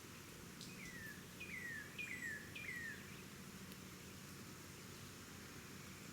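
A bird calling: four notes in quick succession starting about half a second in, each a quick upward flick followed by a falling slurred whistle, over a steady outdoor hiss.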